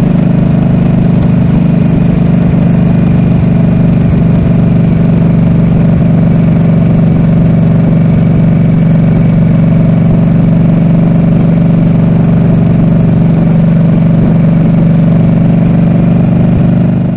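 Harley-Davidson Nightster 975's liquid-cooled V-twin engine running at a steady, unchanging pitch.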